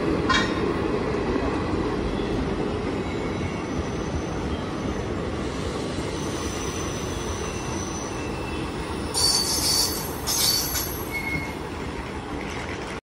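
Velankanni Express passenger coaches rolling past along the platform as the train arrives, a steady rumble of wheels on rail. Brief high-pitched wheel squeals sound a few times about nine to eleven seconds in.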